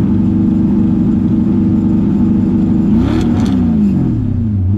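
Straight-piped LS V8 held at a raised rev, then blipped once about three seconds in with a short crackle, before dropping back to a low, steady idle near the end.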